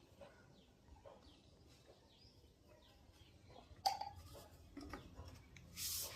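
Faint bird chirps in the background, with a sharp click about four seconds in and a short scraping hiss near the end.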